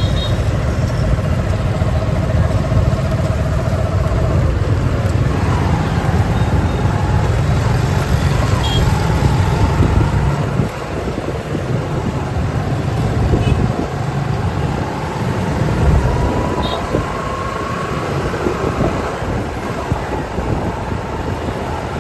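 City traffic heard while riding a motorbike: the engines of the bike and of the motorbikes and cars around it run continuously, with a heavy low rumble that drops about halfway through and engine notes rising and falling.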